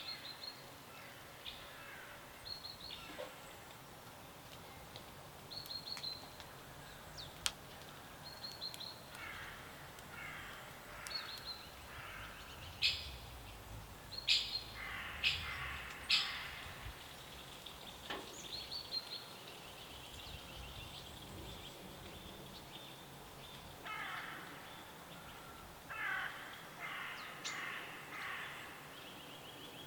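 Wild birds calling: short high chirps repeat every second or two, mixed with harsh, scratchy calls given in quick series, loudest around the middle, over a faint steady hiss.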